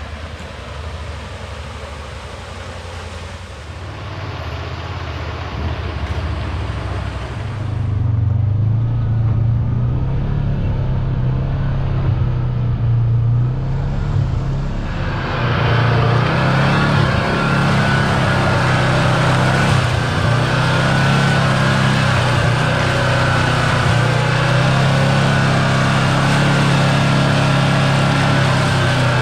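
Side-by-side UTV engine running steadily under way on a trail, with tyre and wind noise. It gets louder about a quarter of the way in and again about halfway, then holds a steady drone.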